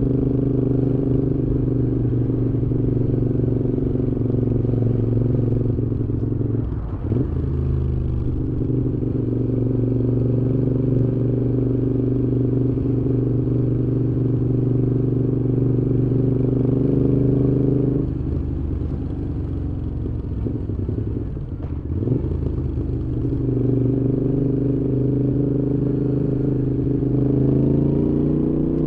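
Moto Guzzi V7's air-cooled transverse V-twin running through Mistral exhausts at a steady cruise. The engine sound breaks briefly about seven seconds in and again around twenty-two seconds, as at a gear change. It eases off around eighteen seconds, then climbs in pitch as the bike accelerates near the end.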